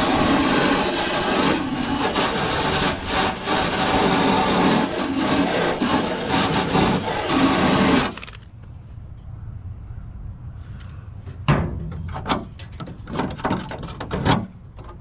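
Rust and seam sealer being scraped off car body sheet metal: a harsh, continuous rasp that cuts off suddenly about eight seconds in, followed after a short pause by a run of short, repeated scraping strokes.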